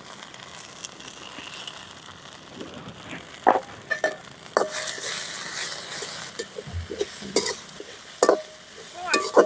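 Chopped thalikeerai greens with crushed garlic and cumin sizzling in oil in a metal pot. From about three seconds in, a steel spoon stirs them, knocking and scraping against the pot in sharp, ringing clinks.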